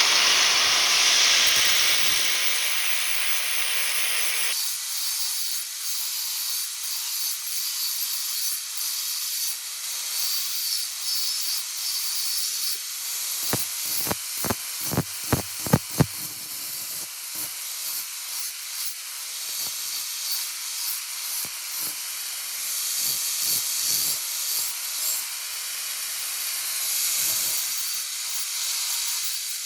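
A steady, loud hiss, stronger for the first few seconds, with a quick run of about eight sharp taps about halfway through.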